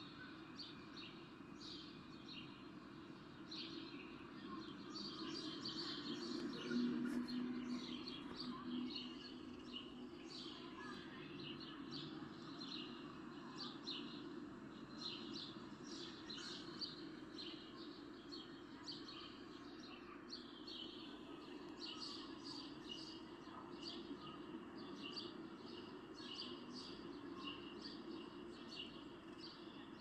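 Faint birdsong ambience: many small birds chirping in quick, short repeated calls throughout, over a steady low background rumble.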